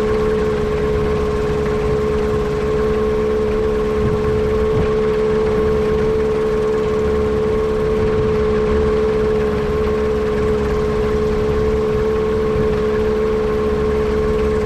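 Yamaha Apex four-cylinder four-stroke engine running at a steady speed, with a strong constant tone. The engine has a misfire that the owner suspects comes from a vacuum leak.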